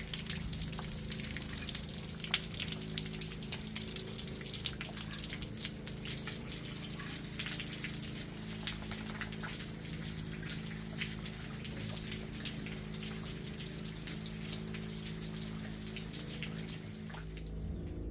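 Heavy rain falling, with many single drops ticking close by, over a steady low hum. The rain sound cuts off suddenly near the end.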